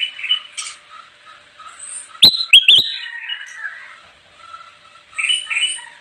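Kutilang emas, a bulbul, singing: a string of short chirping and whistled notes, with three sharp, loud notes in quick succession a little after two seconds in and another bright phrase near the end.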